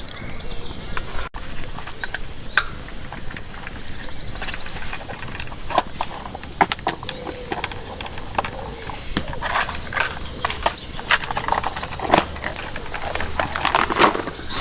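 A songbird singing a fast repeated phrase of high chirps a few seconds in and again near the end, over irregular light clicks and knocks.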